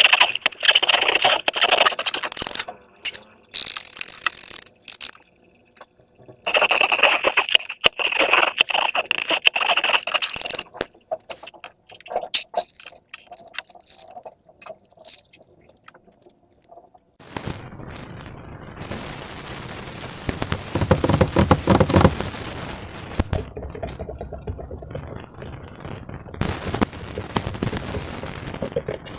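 Hands scraping and rubbing slime-making materials, in bursts with short pauses, then a longer, denser stretch of rubbing from about halfway through.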